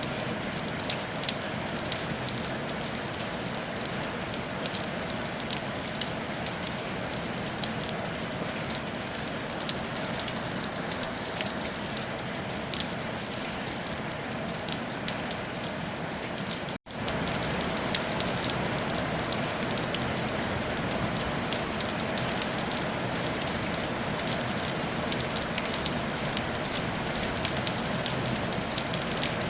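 Steady rain on a tile roof, with many small drop ticks through it. The sound cuts out for an instant about seventeen seconds in and comes back slightly louder.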